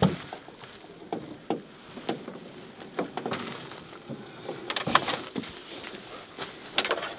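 Gear being handled in the open back of an SUV: an uneven string of knocks, clicks and rustles. The loudest knocks come right at the start, about five seconds in and near the end.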